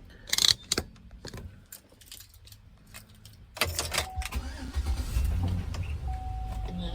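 Keys jangling and clicking, then about three and a half seconds in a pickup truck's engine starts and settles into a steady idle.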